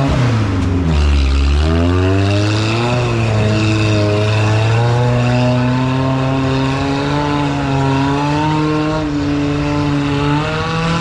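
Off-road rig's engine revving hard under load. The pitch sags about a second in, climbs back, holds at high revs and rises again near the end.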